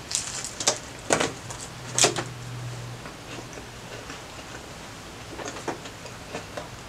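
Biting into and chewing a Subway steak and cheese footlong sandwich. There are several sharp crunches in the first two seconds, then softer, scattered mouth clicks of closed-mouth chewing.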